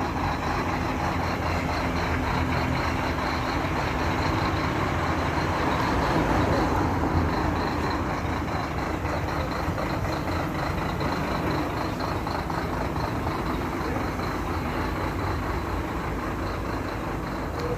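Scania K380 bus engine running steadily, swelling a little about six seconds in and then easing off.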